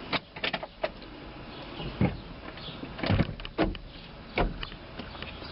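A series of irregular clunks and knocks, about seven in a few seconds, over a low steady background.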